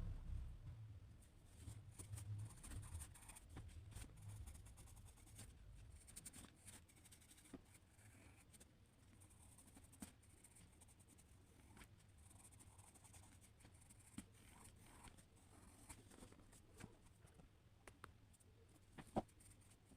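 Faint scratching of drawing strokes on paper, with scattered small ticks and a low rumble during the first few seconds.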